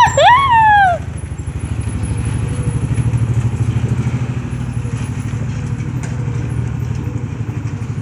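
Car engine running steadily under way, with an even low pulsing. In the first second a loud pitched call glides up and then down before the engine alone carries on.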